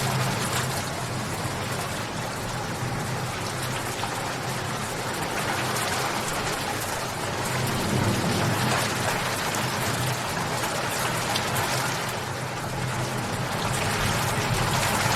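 Steady rain falling, a dense spatter of individual drops over an even hiss, swelling slightly a little past halfway and again near the end.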